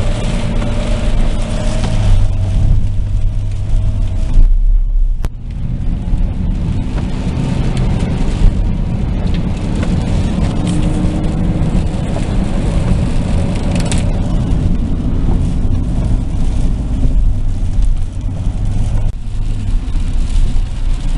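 Car driving along a road, heard from inside the cabin: steady engine hum and tyre noise, dipping briefly about four seconds in.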